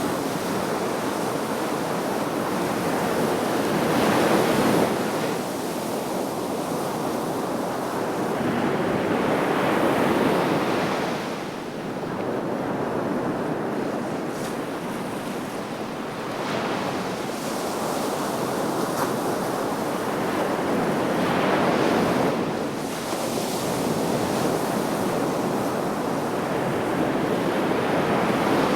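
Sea waves breaking on the shore, a continuous wash of surf swelling and falling back every few seconds, with some wind on the microphone.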